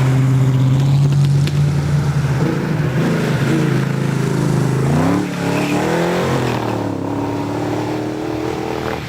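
Race car engine running hard on a hillclimb, first on a steady high note. About five seconds in the revs swing sharply up and down, as with a gear change, then settle to a steadier, lower note.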